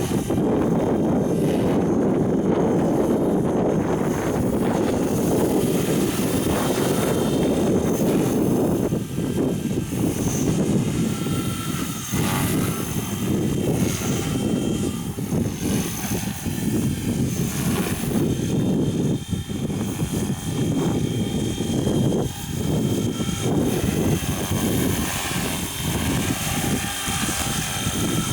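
A 450-size radio-controlled helicopter flying, the whir of its rotor and motor under heavy wind rumbling on the microphone, the level rising and dipping with the gusts.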